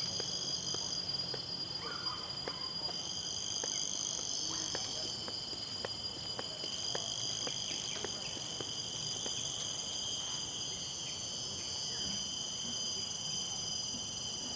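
A chorus of forest insects chirring steadily, several high-pitched tones that swell and fade in turn, with faint scattered ticks.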